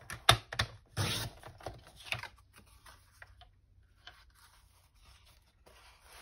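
Stiff kraft cardstock being cut down to size: a few sharp clicks and two short rasping cuts in the first two seconds or so, then quieter paper rustling.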